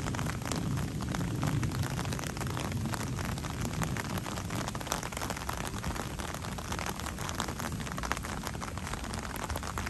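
Steady rain falling, a dense patter of drops. A low thunder rumble dies away over the first second or two.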